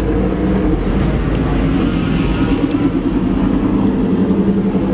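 Modified pickup truck engine running loud and steady at a held speed, its exhaust rough and rapidly pulsing.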